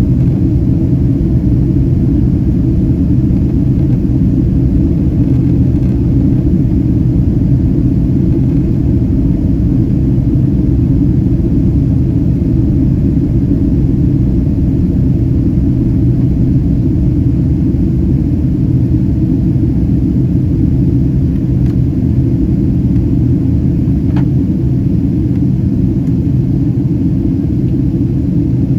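Boeing 767-332ER jetliner in flight: a steady low roar of its engines and the airflow, heard from inside the cabin.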